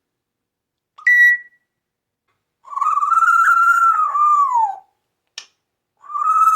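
Parrot vocalizing: a short high chirp, then two long, steady whistled calls, each dropping in pitch as it ends.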